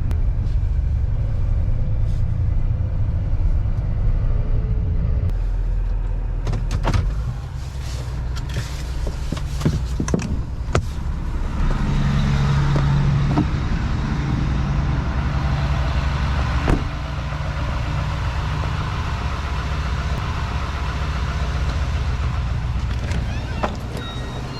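A truck's engine running steadily, with a few clicks and knocks and a hissing rush that comes in about halfway through.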